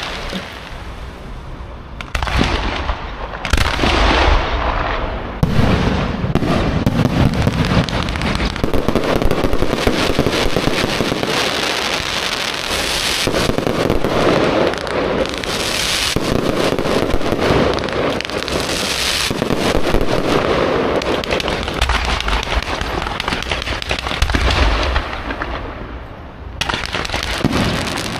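Aerial fireworks going off in a dense, continuous barrage of booms and crackles, easing briefly near the start and again shortly before the end.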